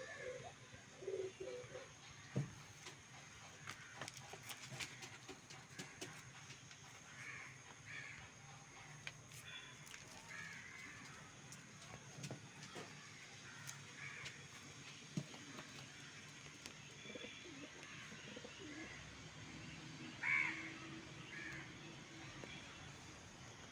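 Domestic pigeons cooing in their loft, with short cawing calls of crows now and then, the loudest near the end.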